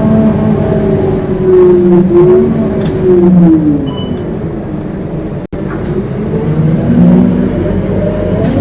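Scania K230UB bus on the move, its drivetrain howling: the pitch falls as the bus slows, then climbs again as it pulls away in the second half. The sound drops out for an instant about halfway through.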